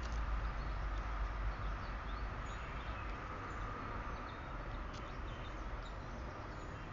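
Outdoor ambience: a steady low rumble and hiss with faint, scattered short bird chirps.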